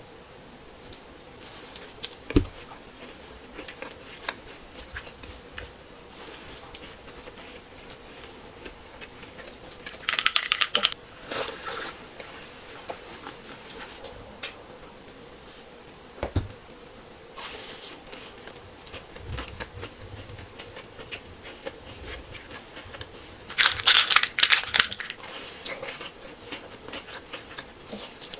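Close-miked eating of a Crumbl cookie: two bursts of crunchy crackling biting and chewing, one about ten seconds in and one near the end, with a few sharp clicks and small taps between.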